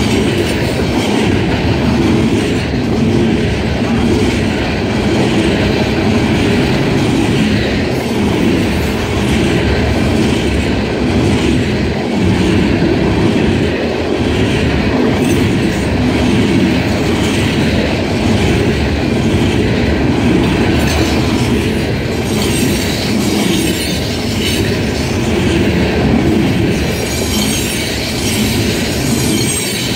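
Loaded coal hopper cars rolling past: a steady rumble of steel wheels on rail with rhythmic clickety-clack over the rail joints.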